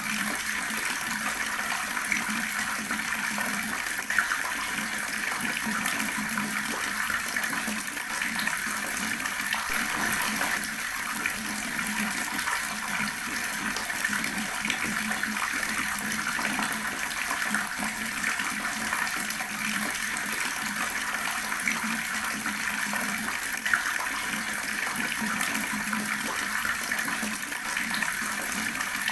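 Water running steadily from a tap, with a few brief splashy clicks about four seconds in and near the end.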